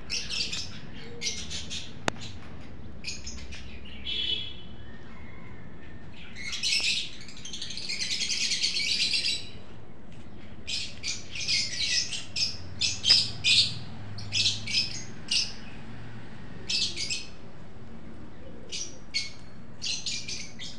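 Wild birds chirping: short bursts of high calls every second or so, with a longer run of chattering about seven to nine seconds in. A single sharp click about two seconds in.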